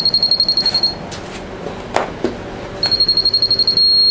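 Moisture meter beeping rapidly on a single high tone, the warning that the carpet it is pressed into is soaking wet. The beeping runs for about a second, stops, and starts again near the end.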